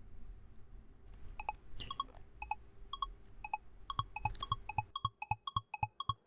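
Quiz countdown timer sound effect: short pitched electronic ticks, two a second at first, speeding up to about four or five a second over the last two seconds as time runs out.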